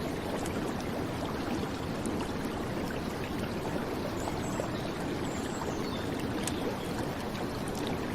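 Steady rush of a flowing river with rain falling on it, an even wash of water noise.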